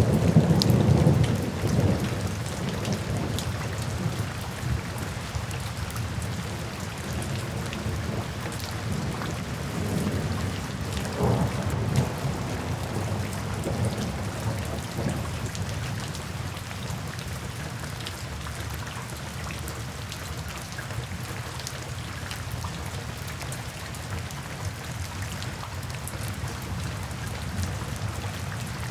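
Steady rain falling, with thunder. A loud low rumble at the start fades over the first few seconds, a lighter rumble comes about eleven seconds in, and after that the rain goes on alone.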